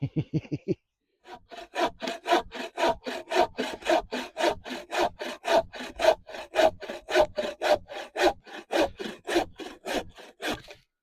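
Hand saw cutting through wood in steady back-and-forth strokes, about three a second. It is preceded by a brief run of quick taps in the first second.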